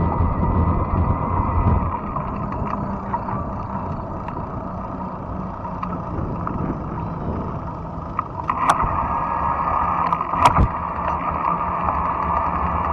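Ride noise from a fat-tire electric bike rolling along a trail: a steady rumble that is heaviest for the first two seconds, then eases. Two sharp knocks come through, about nine and ten and a half seconds in.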